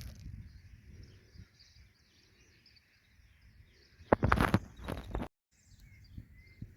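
Small birds chirping and twittering faintly and continuously over a low rumble. A loud rustling, knocking burst comes about four seconds in and lasts about a second.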